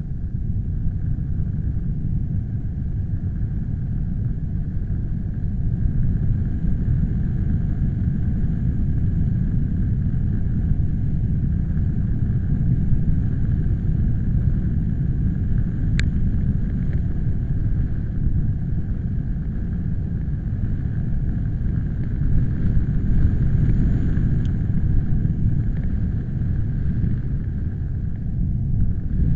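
Wind buffeting the microphone: a steady low rumble, with one sharp click about sixteen seconds in.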